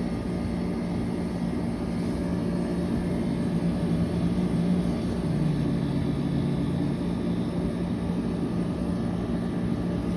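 Window air conditioner running: a steady hum of the fan and compressor, whose low tone wavers and drops in pitch for a few seconds midway.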